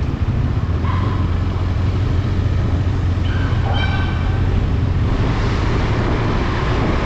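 Motorcycle engine running steadily under way, with wind and road noise. A brief high-pitched tone sounds about three and a half seconds in.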